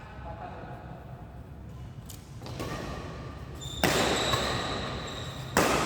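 Badminton rackets striking a shuttlecock during a rally: sharp string pings about two seconds apart, a faint one and then two loud ones, each ringing briefly and echoing through a large hall.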